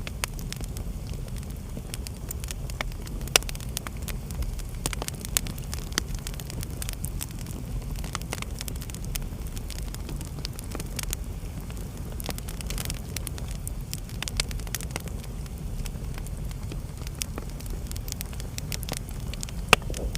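Wood fire in a fireplace crackling, over a steady low rumble of the flames. Scattered sharp pops, two of them louder, come a few seconds in and near the end.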